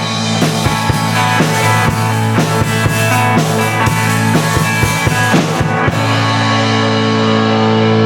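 Rock band playing the closing bars of a jangly rock song, with drum kit and guitars. About six seconds in the drums stop and a final chord is left ringing.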